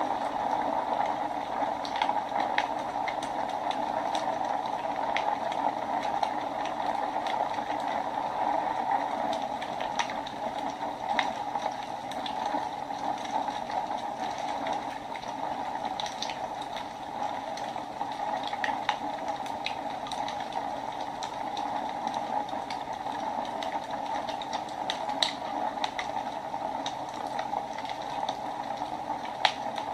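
Wood fire burning in a fireplace: a steady hiss with irregular, scattered sharp crackles and pops.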